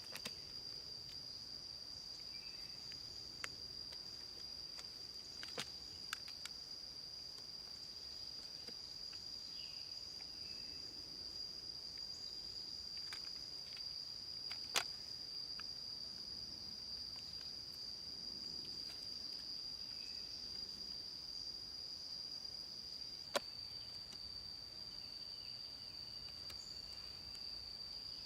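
Steady high-pitched insect chorus, a continuous cricket-like drone in the jungle. Scattered through it are a few sharp clicks or snaps, the loudest about halfway and near the end.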